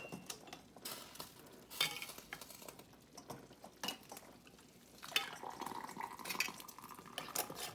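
Scattered clinks and light knocks of glass jelly jars, metal canning lids and utensils, with some stirring and scraping, as jars are filled with hot syrup and the lids and rings are screwed on.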